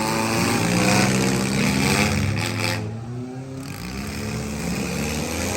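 Engines of several compact derby cars running and revving, their pitch rising and falling, with a brief lull about three seconds in.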